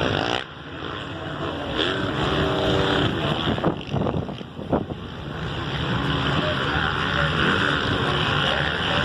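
450cc four-stroke motocross bikes racing on the track, engines revving up and down as they work through the gears, with a few sharp cracks a little before the middle and wind on the microphone.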